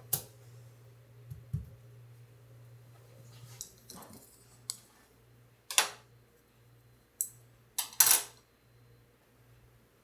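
Scattered sharp clicks and knocks of small hard objects being handled, about eight in all, the loudest a close pair about eight seconds in, over a steady low hum.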